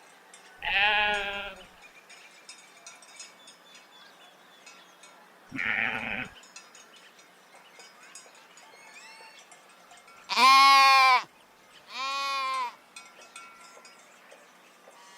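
Sheep bleating: four separate wavering bleats, the third the loudest.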